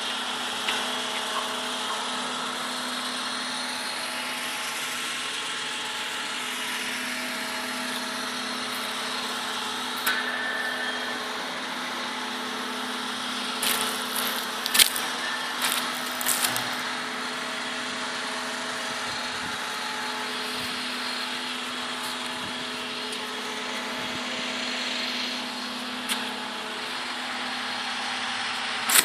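Steady machine hum with several held tones, broken by a few short knocks and clicks about a third and halfway through.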